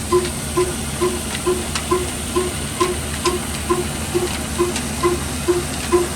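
Old diesel engine running a flour mill (chakki) at a steady, even beat of about two pulses a second, over a constant hiss and whir from the mill.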